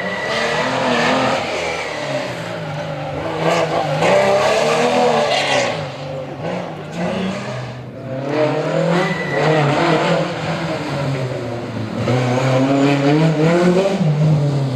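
Historic rally car engine driven hard, its revs repeatedly climbing and dropping back through gear changes.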